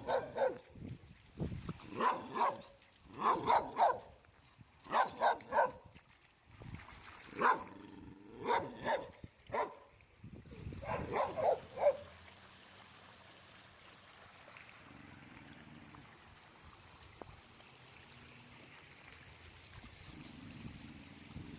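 A dog barking in repeated short clusters of barks for about the first half, then stopping, leaving only a faint steady hiss.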